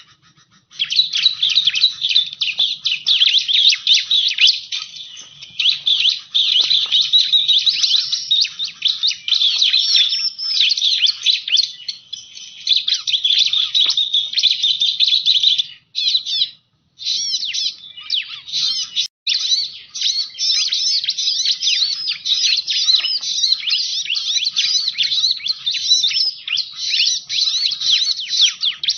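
Bar-winged prinia (ciblek) song: a dense, unbroken stream of rapid high chirps, pausing briefly about sixteen seconds in and again a few seconds later.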